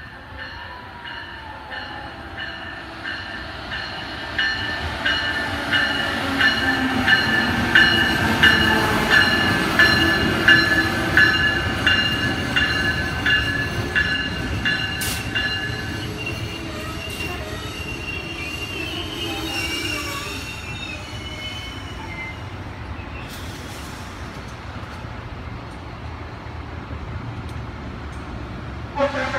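Amtrak passenger train with an electric locomotive passing the platform at speed. It grows louder as it nears and is loudest around eight to eleven seconds in, with evenly spaced clicks of the wheels over the rails and a steady high squeal from the wheels that stops about sixteen seconds in. Then comes the steady rolling rumble of the passenger coaches going by.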